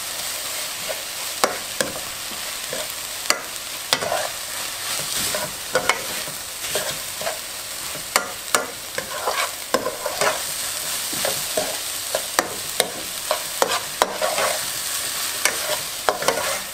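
Chopped onion and garlic sizzling in oil in a caldero as a spoon stirs them, with many irregular clicks and scrapes of the spoon against the pot.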